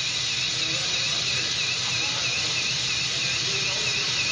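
Gas soldering torch hissing steadily while it heats a joint for soldering. A faint high chirp repeats about two or three times a second throughout.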